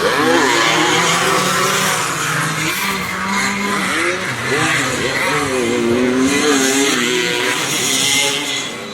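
Several vintage motocross bikes racing, their engines revving up and down with the throttle in overlapping rising and falling pitches. The sound eases off a little near the end.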